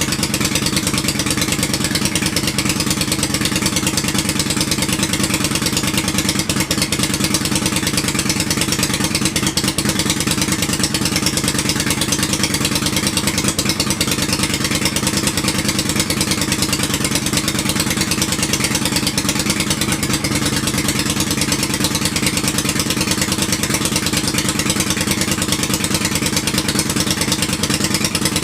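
Carbureted twin-cylinder motorcycle engine idling steadily on its first run after a rebuild, warming up toward operating temperature.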